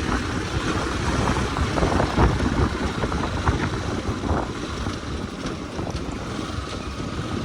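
Motorcycle riding along, its engine and road noise mixed with wind buffeting the microphone.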